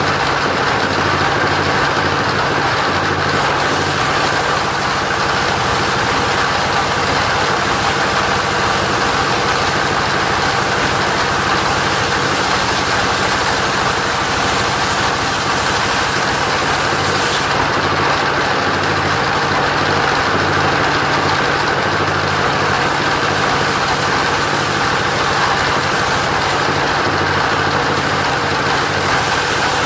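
Engine-driven mobile sawmill running at a steady, unchanging pitch and level while sawing coconut timber.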